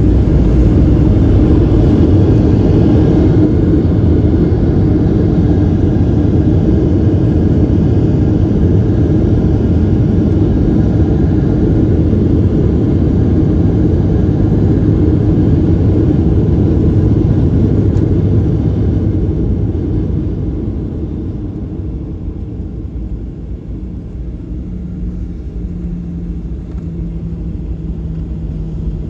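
Boeing 737-800 cabin rumble during the landing roll: a loud, steady roar that dies down about twenty seconds in as the plane slows, leaving a quieter rumble with a faint steady hum.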